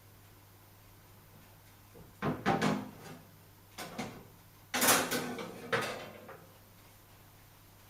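Whirlpool washing machine running a wash cycle: a steady low hum with three groups of clunks and knocks, about a second apart, the last the loudest.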